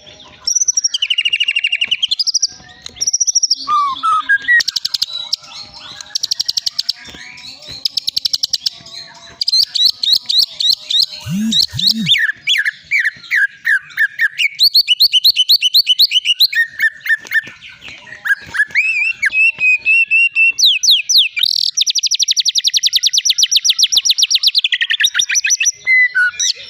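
White-rumped shama (long-tailed Medan murai batu) singing a long, varied song, pouring out its repertoire: clear whistled phrases, rapid trills and fast runs of repeated notes, with a long fast even trill near the end.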